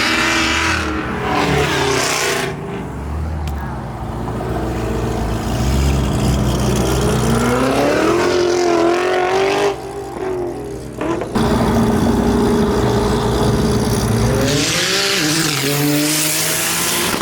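Supercar engines revving and accelerating hard as they pull away, the pitch climbing through the gears, with a sudden drop about ten seconds in. Near the end comes a loud surge of exhaust from a hard launch, which the filmer then credits to a 1,000-horsepower Porsche 911 Turbo S.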